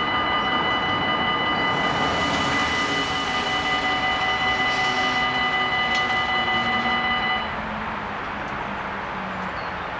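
Level-crossing bells ringing with a steady, several-toned electronic ring that cuts off suddenly a little over seven seconds in, over the rushing noise of a train passing.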